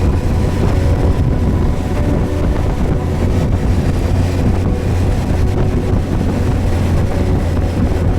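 Suzuki GSX1250FA's inline-four engine running at a steady speed while riding, under a rush of wind on the microphone.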